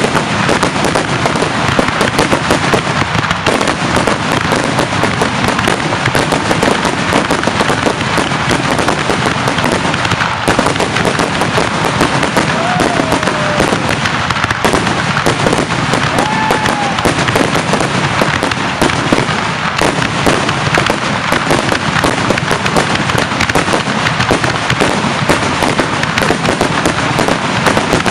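Fireworks finale: a rapid, unbroken barrage of shell bursts and crackling, loud and dense throughout.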